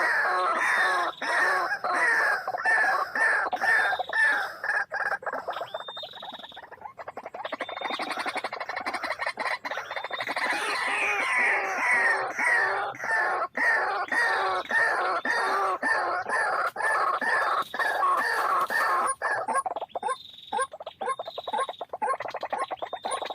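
White-breasted waterhen calling, a long run of repeated harsh 'kru-ak' notes at about three a second.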